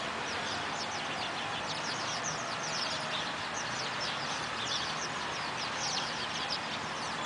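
A flock of small birds chirping constantly, many short high notes overlapping, over a steady rushing background noise.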